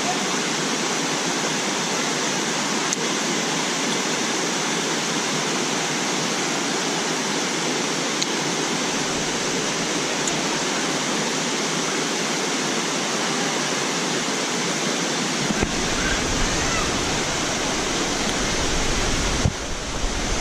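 Waterfall rushing and splashing as a steady wash of water noise over a cascade tier. About three-quarters of the way through, a low rumble joins it.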